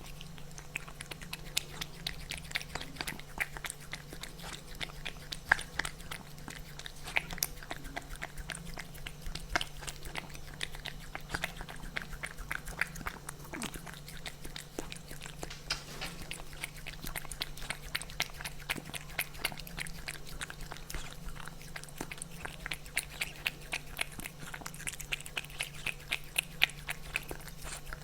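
Kitten chewing food: many quick, irregular clicks with a steady low hum underneath.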